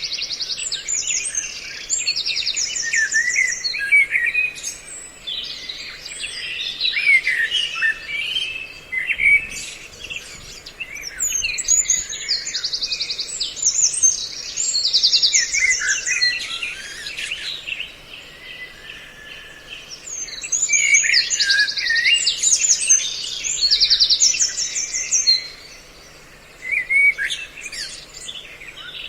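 A mixed chorus of several songbirds calling and singing over one another: quick repeated trills, chirps and short whistled phrases, with two brief lulls. It is a lure recording of mixed bird calls, meant to draw birds in. A faint steady low hum runs underneath.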